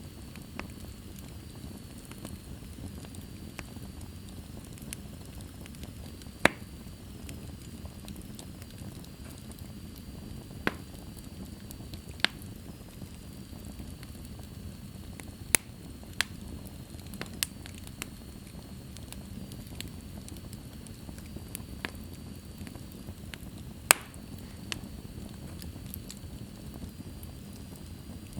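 Wood fire crackling in a fireplace: a steady low rustle of flames, with sharp pops at irregular intervals, the loudest a few seconds apart.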